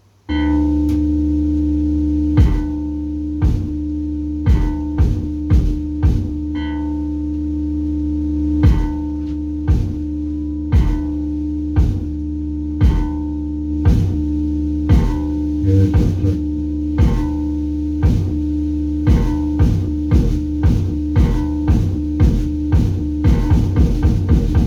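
Cybergrind/noise music played live: a loud, steady droning chord cuts in abruptly, punctuated by irregular hard drum hits. Near the end the hits speed up into a rapid barrage.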